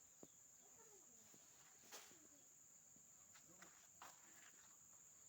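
Near silence: a faint, steady high-pitched insect drone, with a few faint clicks about two and four seconds in.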